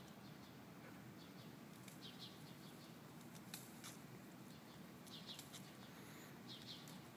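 Near silence: quiet outdoor ambience with faint short bird chirps, several quick notes at a time, heard four times, and a couple of faint clicks.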